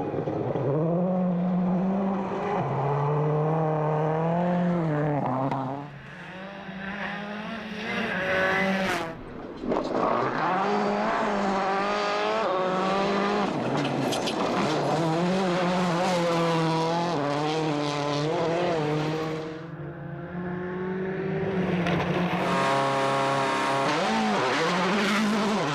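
World Rally Car's turbocharged four-cylinder engine at full power on a special stage, revving up through the gears, its pitch climbing and dropping sharply at each change. The engine note falls away briefly twice, about six and twenty seconds in.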